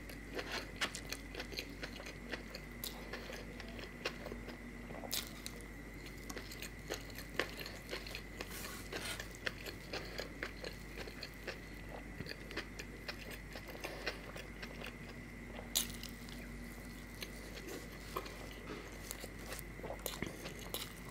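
Close-miked chewing and biting of vegetable uttapam eaten by hand, with many short sharp mouth clicks, over a faint steady high tone.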